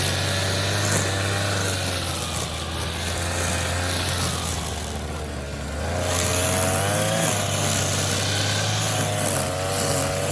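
A motor engine running steadily, its pitch wavering up and down, with a change in its note about six seconds in.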